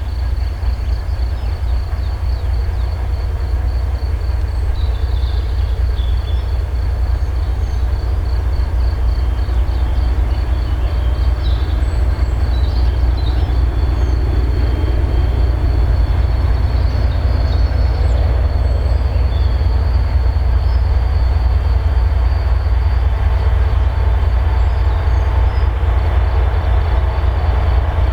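2M62U twin-section diesel locomotive, with its two-stroke diesel engines, hauling a freight train as it approaches. It makes a heavy, steady low rumble that grows slowly louder.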